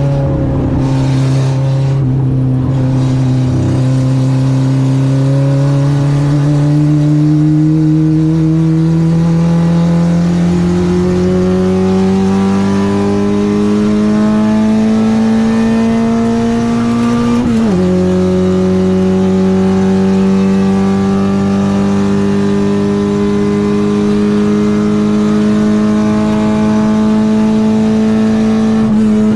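Citroen AX 8-valve four-cylinder engine on twin Weber 40 carburettors pulling at full throttle, its revs climbing slowly for about seventeen seconds. A quick gear change drops the revs, and the engine then holds nearly steady, high revs until they fall off at the very end.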